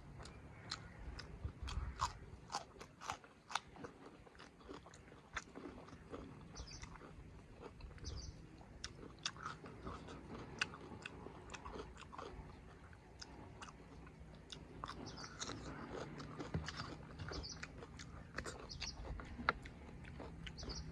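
Close-up chewing and biting of food, with frequent wet mouth clicks and crunches.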